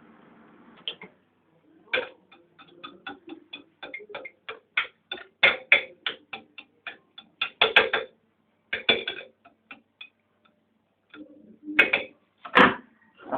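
A microwave oven's hum stops about a second in. After that comes a long run of irregular metal-on-ceramic clicks and taps: a knife clinking against a plate as cooked egg white is mixed.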